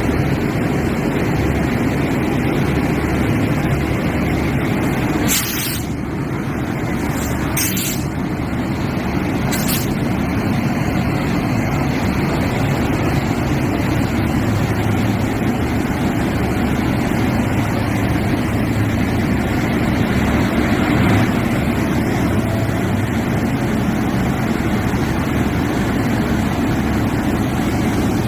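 Train locomotive engine running steadily, with three short high hisses about five, eight and ten seconds in.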